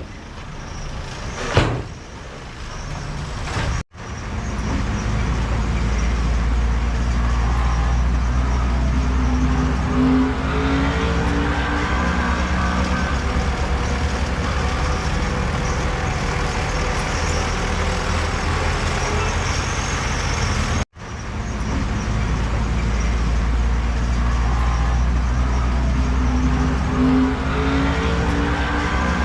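Heavy diesel earthmoving machinery, a bulldozer and dump trucks, running at work: a steady low engine rumble whose pitch rises and falls with the load. A sharp knock comes about a second and a half in, and the sound cuts out briefly twice, near 4 s and again near 21 s.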